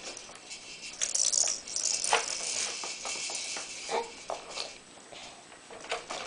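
Rainforest Jumperoo's plastic rattle toys clattering in quick, irregular shakes as the bouncer is jiggled, loudest about a second in.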